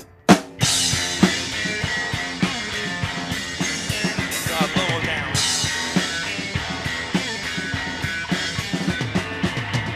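Live rock band playing an instrumental passage with drum kit and guitar. After a short break the band comes back in with a sharp drum hit and keeps playing at full volume.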